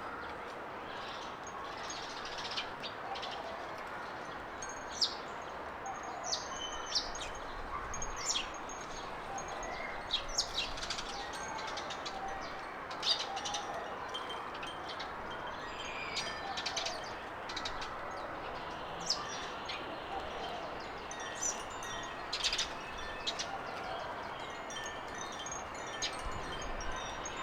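Small garden birds chirping, with short high calls and a few brief whistled notes scattered every second or so over a steady background hiss.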